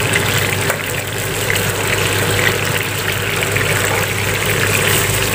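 Raw marinated chicken pieces frying in hot oil in an aluminium frying pan: a steady sizzle with fine crackling, over a steady low hum.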